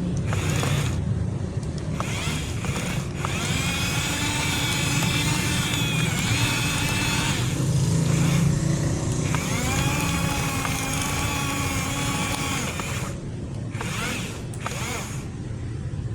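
Excavator working: a steady low engine rumble with a motor whine that rises, holds and falls away again, twice.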